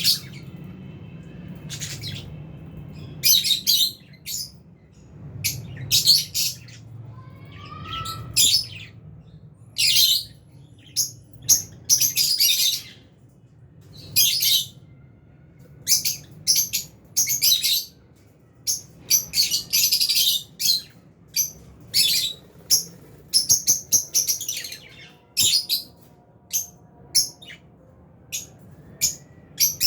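Lovebirds chirping: a flock of albino and Fisher's lovebirds giving shrill, short high-pitched calls in irregular clusters, with a few rising chirps among them.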